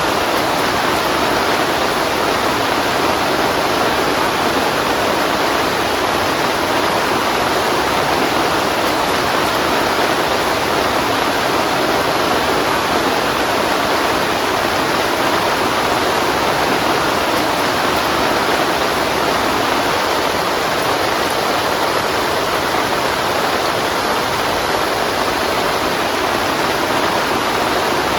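Heavy rain falling steadily, a dense even hiss of water with no thunder or other events standing out.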